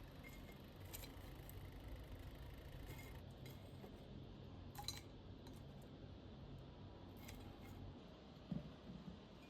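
Near silence with a few faint, sparse clinks of kitchenware, a handful of light taps spread out over a low background hum.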